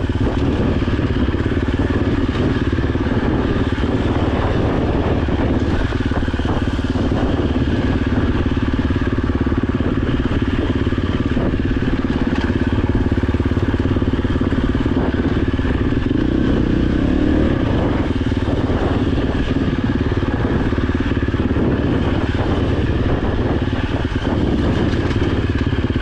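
Dirt bike engine running at a fairly steady pace while riding a trail, with occasional clattering knocks from the bike over rough ground.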